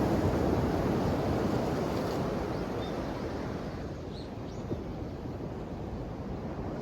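Ocean waves washing onto the shore. The surge is loudest at the start and eases away over the first few seconds into a lower, steady wash.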